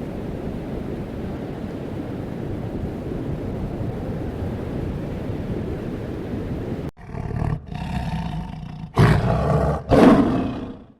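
A steady rushing noise, then an abrupt cut about seven seconds in to a large wild animal roaring in rough, loud calls, the two loudest near the end.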